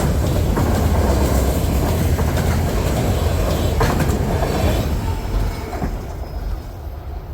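A freight train rolling past with a heavy rumble, its wheels clacking over rail joints. The sound dies away over the last couple of seconds as the train moves off.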